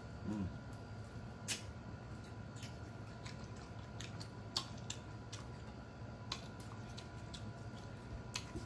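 Close-miked chewing of food: scattered wet mouth clicks and lip smacks at irregular intervals, with a short hummed "mm" just after the start.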